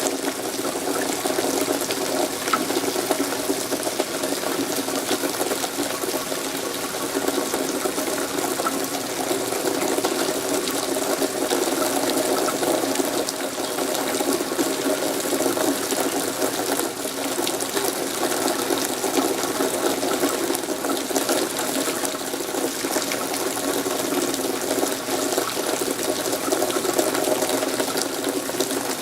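Steady rain falling: an even hiss of many drops, unchanging in level.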